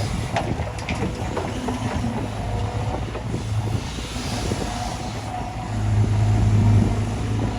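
Heavy diesel machinery running steadily, with a few clanks and knocks in the first second and a half. The engine gets louder for about a second near six seconds in.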